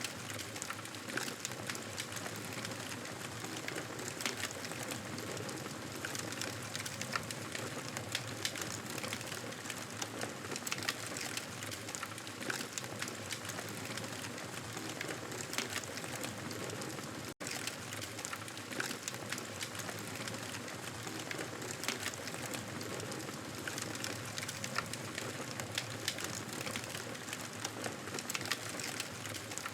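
Fireplace fire crackling: a steady hiss with frequent small pops and snaps. It cuts out for an instant a little past the middle, then carries on as before.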